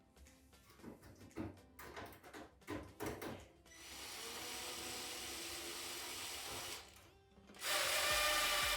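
Scattered clicks and knocks of handling, then a small motorised tool running twice in steady stretches, the second one louder.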